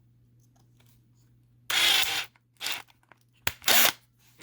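A few short scraping, crunching handling noises after a quiet start, as a small diecast toy truck and its parts are handled. The longest and loudest comes about two seconds in, with briefer ones after it.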